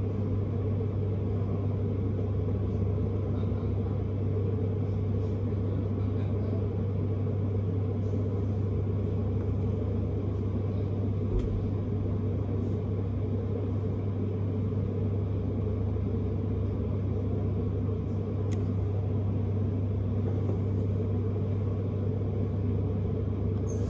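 Vienna S-Bahn commuter train heard from inside a passenger car while running: a steady, even rumble of wheels on rail and running gear.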